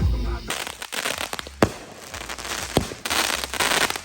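Fireworks going off: a run of crackling with several sharp pops, the crackle loudest about three seconds in. Music cuts off abruptly about half a second in.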